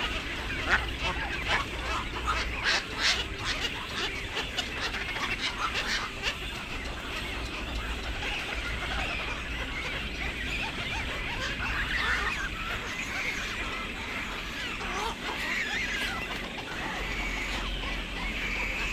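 Waterbirds calling: many overlapping harsh, quacking calls, with sharp clicks in the first few seconds.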